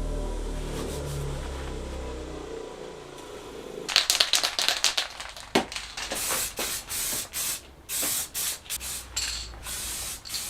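Background music fading out, then a rapid series of short hissing spray bursts, some in quick clusters and others held for about half a second, going on for the rest of the time.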